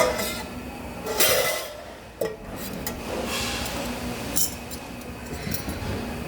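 Light metallic clinks and a couple of short hissing bursts, with a sharp click a little over two seconds in.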